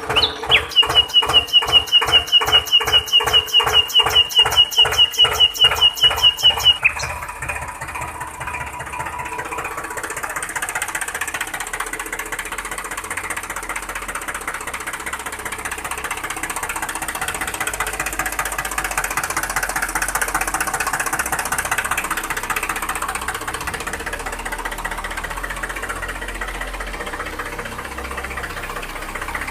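A small machine running: for about the first seven seconds a regular clacking about four times a second with a high tone over it, then it settles into a steady mechanical running sound.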